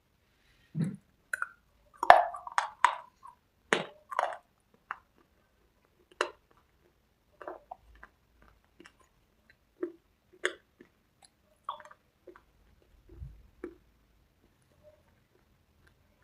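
Mouth crunching and chewing of dry cubes with red slate paste: irregular crisp crunches, a dense loud run about two seconds in, then sparser, softer crunches.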